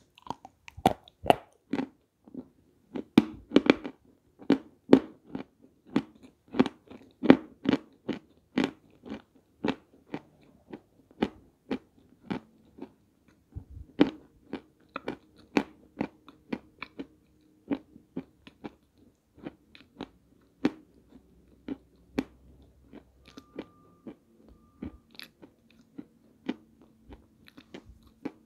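Chunks of peschanka, a sandy edible clay, being bitten and crunched up close: a quick run of sharp, crackling crunches about two a second, growing softer and sparser after about twelve seconds as the chewing goes on.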